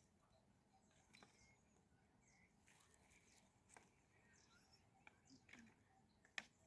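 Near silence, with a few faint scattered clicks and ticks, the sharpest near the end.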